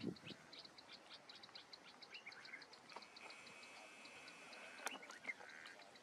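Faint birdsong: a rapid, high ticking call repeating about five times a second, with a few short chirps over it. A steady thin high tone holds for about a second and a half in the middle, and a single sharp click comes near the end.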